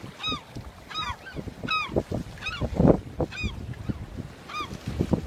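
A bird repeatedly giving loud, arched honking calls, about seven in a row, one every half second to a second. Low buffeting noise underneath, loudest about three seconds in.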